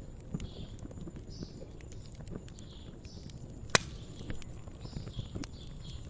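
Wood fire crackling, with a low rumble and irregular sharp pops, one much louder pop near the middle. Soft bird chirps run in the background.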